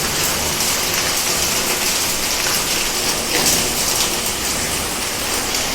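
Heavy rain pouring down: a loud, steady hiss of rain falling on surfaces.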